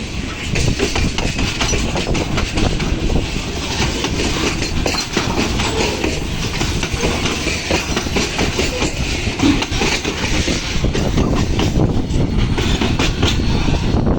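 Loaded ore freight train rolling past, its wagons' wheels clattering steadily over the rail joints.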